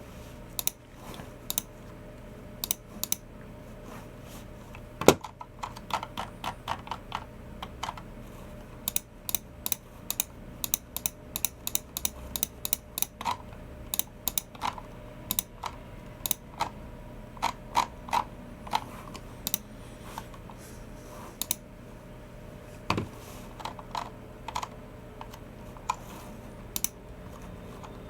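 Typing on a Logitech MX Keys Mini low-profile keyboard: irregular runs of soft key clicks, with a heavier keystroke about five seconds in and another a little before the end.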